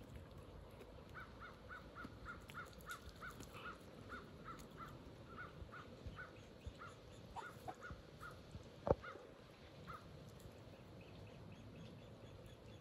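A bird calling in a steady series of short, even notes, about two or three a second, with a single sharp tap about nine seconds in.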